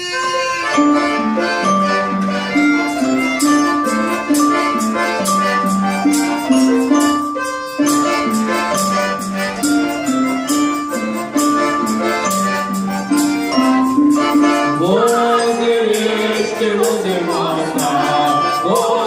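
Instrumental introduction to a Russian folk song: a stepping melody over a steady beat of clicking, shaken folk percussion. Voices come in singing about three-quarters of the way through.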